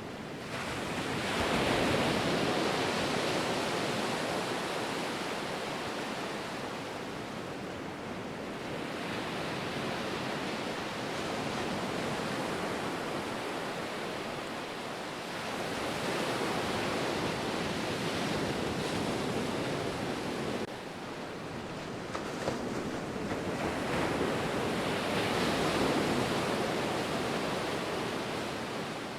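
Ocean waves breaking and washing on shore, a steady rush of surf that swells and ebbs with each wave, about four surges over the half minute.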